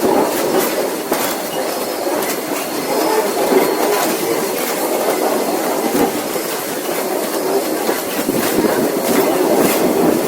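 Heritage train carriages rolling along the track with a steady rumble and intermittent clacks of the wheels over the rail joints.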